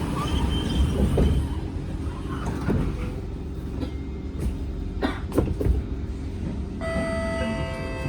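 Interior of a Kawasaki C151 metro train pulling away: a steady low rumble of the running gear with several sharp clunks and jolts from its badly worn suspension. A set of steady tones comes in suddenly near the end.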